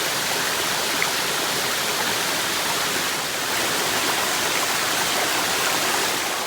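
Loud, steady rush of fast-flowing water in a wide mountain creek.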